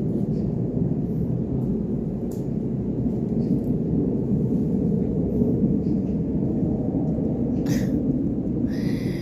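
Steady low rumbling noise, with a few faint clicks and a brief high-pitched call just before the end.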